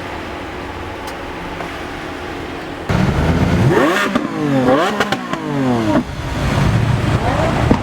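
Car engine idling steadily, then from about three seconds in revved hard in several quick blips, its pitch sweeping up and falling back each time, before dropping to a lower, rougher run near the end.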